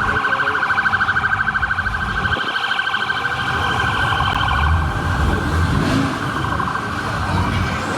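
Electronic siren or alarm tone pulsing rapidly at a steady pitch, fading a little after about five seconds, over a low rumble.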